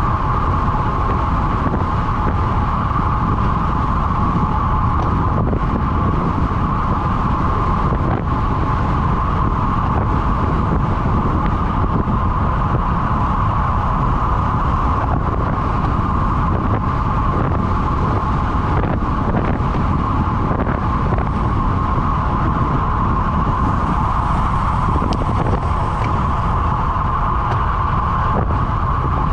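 Steady wind rushing over the microphone while riding at speed, over a continuous hum.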